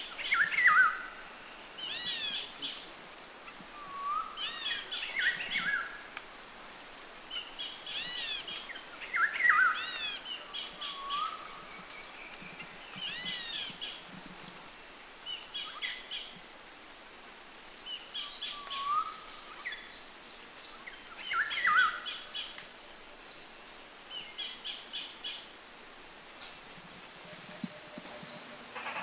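Songbirds singing outdoors in woodland: short phrases of sweeping whistles and chirps recur every second or two over a steady high hiss.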